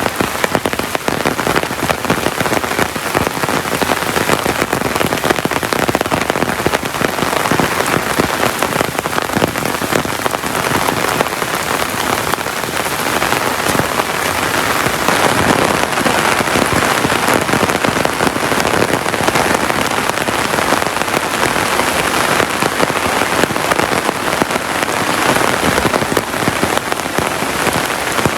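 Heavy tropical rain falling steadily, a dense, even patter of drops that grows slightly heavier about halfway through.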